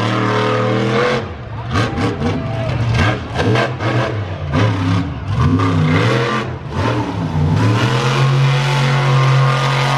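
Monster truck engine revving hard, its pitch rising and falling several times, then holding at a high steady pitch near the end.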